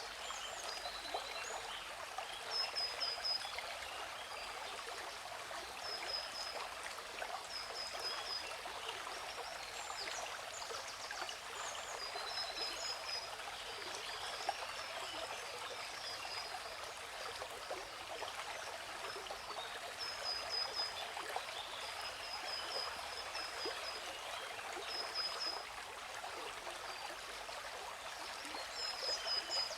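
Steady rush and splash of falling water from a waterfall, with a bird's short high chirps, quick runs of a few notes, repeating every few seconds.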